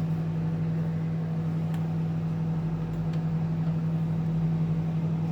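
Microwave oven running, a steady hum that is fairly loud, with a couple of faint clicks.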